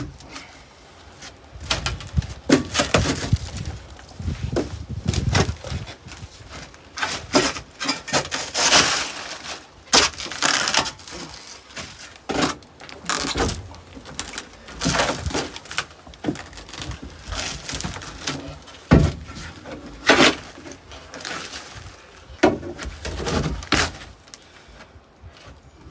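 Irregular knocking, banging and scraping of hard objects, as in demolition or handling of wood and tools, with sharper bangs about ten, nineteen and twenty seconds in.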